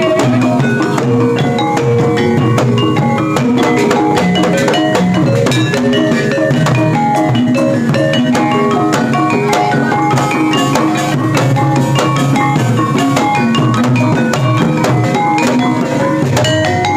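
Javanese gamelan ensemble playing steadily: bronze mallet instruments strike a dense, even run of metallic notes over hand drums. It is a sound check, so the ensemble is heard through the troupe's sound system.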